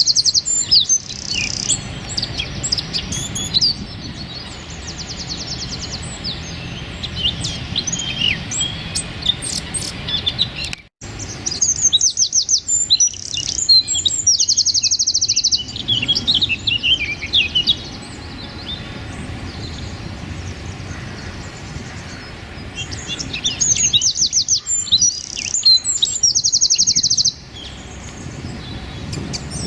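A wren singing: bursts of very rapid, high-pitched trilled notes, the dense 'machine-gun' song, repeated several times with short chirps in between, over a steady low background hum.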